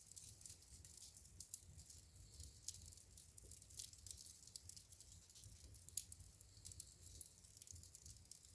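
Wood fire crackling faintly in a fireplace: frequent small pops and snaps, a few sharper ones standing out, over a faint low rumble.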